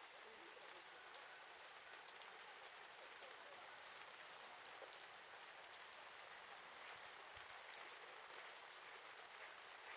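Wood fire crackling faintly: a steady hiss with many small, scattered pops and ticks, a few sharper ones near the end.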